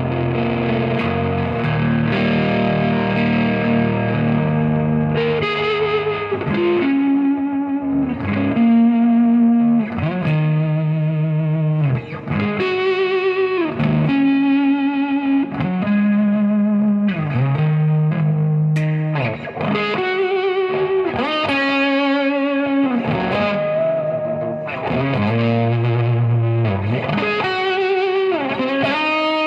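Gibson Les Paul electric guitar with humbuckers, played through a Monarch Third Eye overdrive pedal into a Marshall amp, with an overdriven tone. Chords ring out for the first few seconds, then give way to single-note lead lines with string bends and vibrato.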